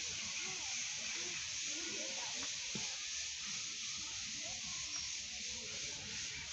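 Steady high hiss of outdoor background noise, with faint, distant voices underneath.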